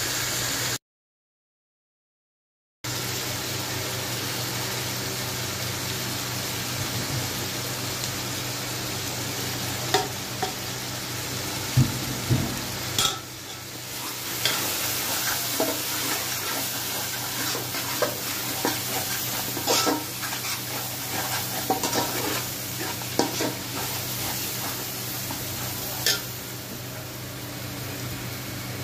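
Onion-tomato masala sizzling as it fries in oil in an aluminium pot. A slotted steel spatula stirs it and clinks against the pot's side now and then. The sound cuts out completely for about two seconds near the start.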